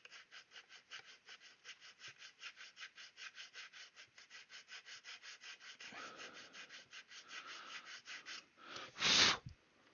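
A diamond needle file rasping back and forth on a plastic model kit in quick, even strokes, about six a second. A short, loud puff of breath comes near the end.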